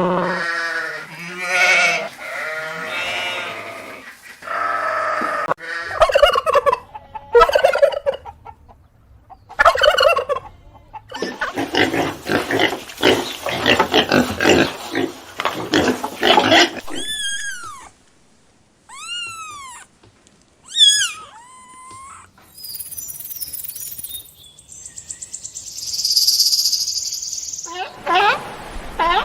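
Domestic fowl calling: a string of separate calls, with a long run of rapid gobbling chatter in the middle, then a few short, high, arching chirps.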